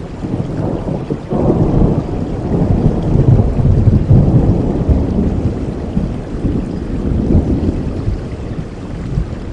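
Rolling thunder over steady rainfall: a low rumble swells suddenly about a second in, is loudest midway, and slowly dies away near the end.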